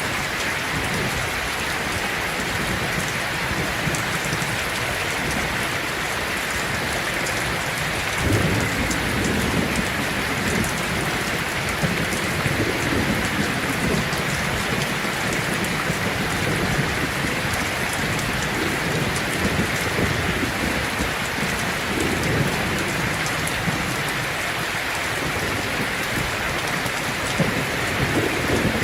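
Heavy rain drumming steadily on a tin roof, with low thunder rumbling in several times, the first about eight seconds in.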